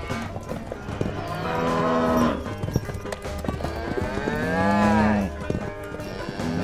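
Cow mooing twice, two long calls about a second each, the second rising and falling in pitch, with short clicks scattered between them.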